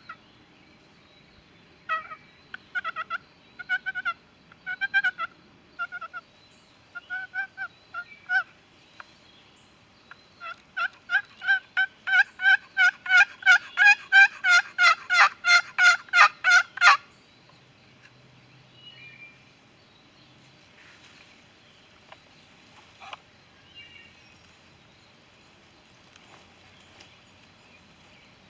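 Turkey yelping. About nine spaced yelps come first, then after a short pause a faster, louder run of about two dozen yelps lasting some six seconds, which stops abruptly.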